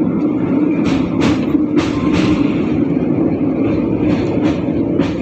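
A train running slowly over a railway bridge: a steady rumble of wheels on rail, with sharp clacks in pairs as wheel sets cross rail joints, about a second in, around two seconds, and again past four seconds.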